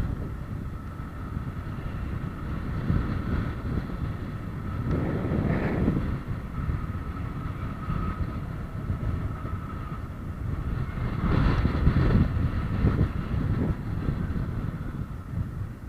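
Low road-traffic rumble with a steady faint whine, swelling as a vehicle passes about five seconds in and again, louder, around eleven to thirteen seconds.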